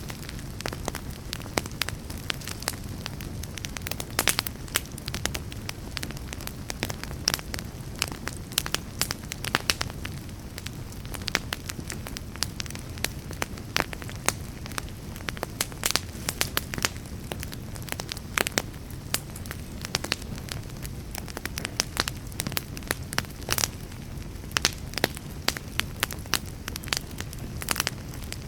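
Wood fire crackling in a fireplace: a steady low rumble of flame with frequent sharp, irregular pops and snaps.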